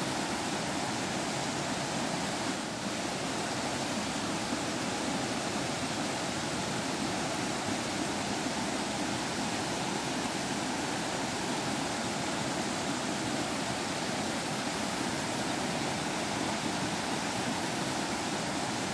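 Forest stream water babbling and flowing steadily, an even rushing noise with no pauses.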